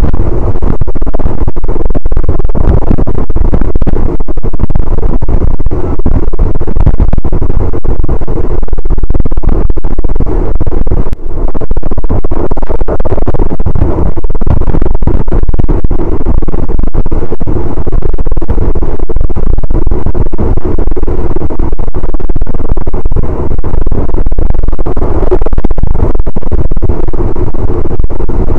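Wind rushing past the open window of a moving passenger train, buffeting and overloading the microphone, over the steady running noise of the coach on the rails.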